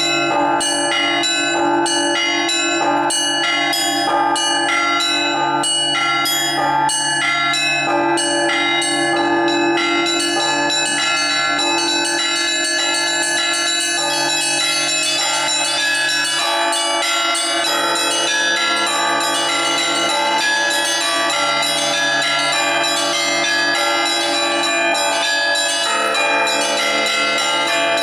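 Russian Orthodox church bells rung by one ringer. Small high bells are struck in a fast, rhythmic pattern over the hum of larger low bells. About sixteen seconds in, the low bells change.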